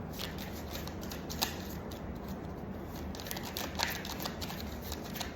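Scattered light clicks and rustles of tarot cards being handled, over a steady low room hum.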